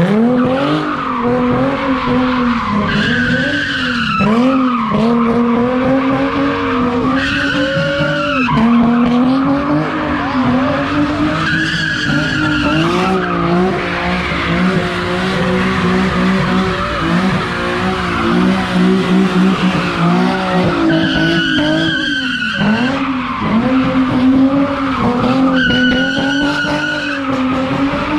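Car engine revving hard, its pitch swinging up and down, while the tires skid and squeal in repeated bursts, as in burnouts or donuts.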